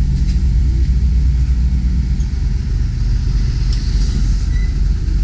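Semi truck's diesel engine running steadily at a low idle, a continuous low rumble.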